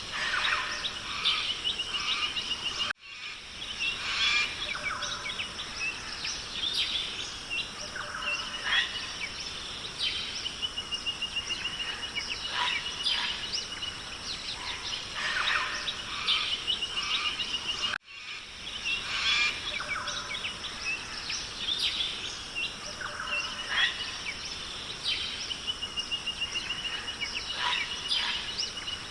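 Rainforest ambience of several birds chirping and calling, with a steady trill recurring, over a constant high hiss. The recording is a loop that restarts with a brief dropout about three seconds in and again about eighteen seconds in.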